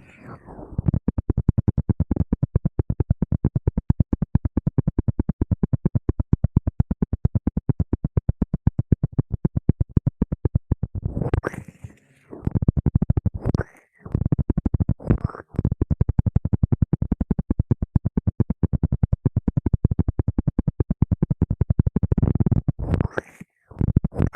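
Rapid rhythmic scratching, about eight short strokes a second, in several runs with brief breaks.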